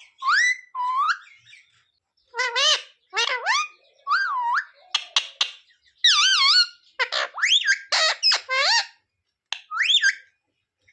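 Pet green parrot giving a string of short, squeaky, whistle-like calls and chatter with pitch bending up and down, in bursts separated by brief silences.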